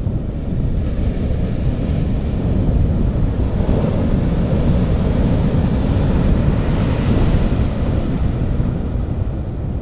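Sea waves washing onto a beach: one wave's wash swells a few seconds in and fades away near the end. Wind rumbles on the microphone throughout.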